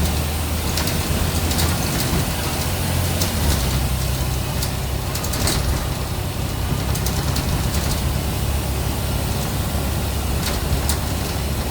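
Scania N94UB bus's 9-litre diesel engine running, its low note easing off about three and a half seconds in, with light rattling clicks scattered throughout.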